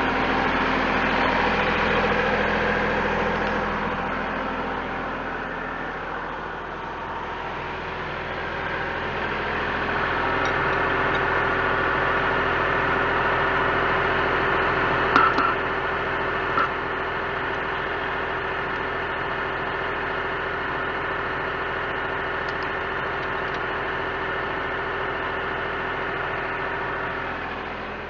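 Diesel tractor engine powering a Kubota BH77 backhoe, running steadily. Its loudness sags a few seconds in and picks back up. Two short metallic knocks come about halfway through.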